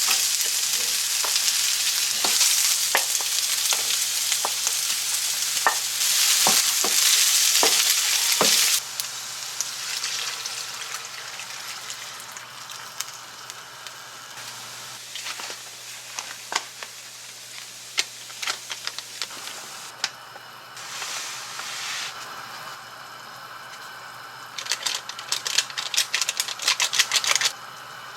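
Food frying and sizzling in a hot pan, with the clicks and taps of a utensil stirring it. The sizzle is loud for about the first nine seconds, then drops suddenly to a quieter sizzle with scattered taps and a few short louder flare-ups near the end.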